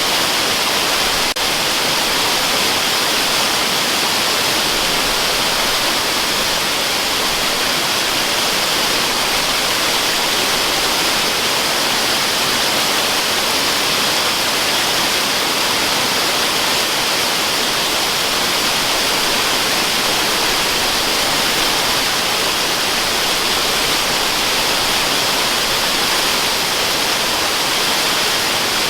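Waterfall: a steady, unbroken rush of falling water, hissy and light in the bass, with one brief click about a second in.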